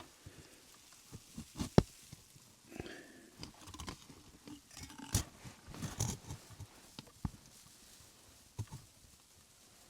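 Irregular crunches, snaps and sharp cracks of small dry sticks and grass being broken and handled to build a fire, the loudest snap coming a little under two seconds in.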